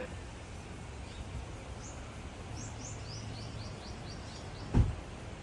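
Outdoor ambience with steady background noise. A bird gives a quick run of about eight short, high, falling chirps about two to four seconds in. Near the end there is a single loud low thump.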